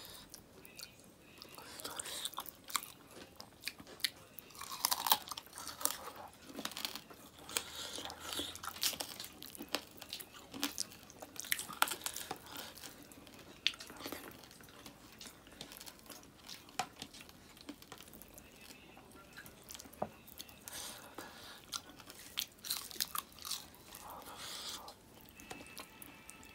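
Close-miked chewing and mouth noises of a person eating by hand: many short, irregular clicks and smacks, with food being squished between the fingers.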